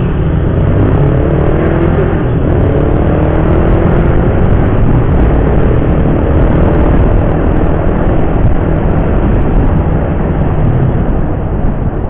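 Motorcycle engine pulling under acceleration, its pitch climbing over the first few seconds and then holding steady at cruising speed, under heavy wind rumble on the rider's microphone.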